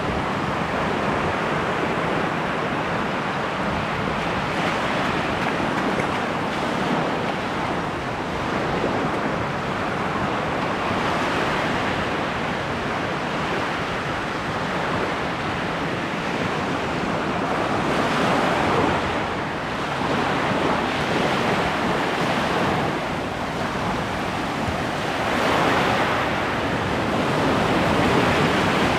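Ocean surf washing onto the shore, a steady rush that swells louder every several seconds as waves break.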